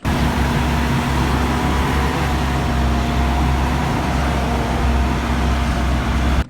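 Steady vehicle engine noise: a loud low rumble under hiss, with a few steady tones, starting and stopping abruptly.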